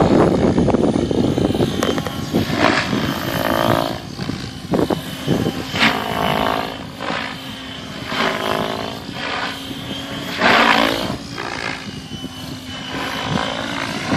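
Align T-Rex 800 radio-controlled helicopter in flight, its rotor blades and motor whining and rising and falling in pitch as it swoops past and changes attitude. The sound is heaviest and lowest in the first few seconds, then swells in several loud passes.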